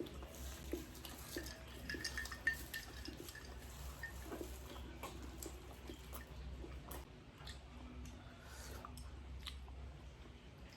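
Faint eating sounds: cutlery clinking and scraping on plates, with chewing, as scattered small clicks.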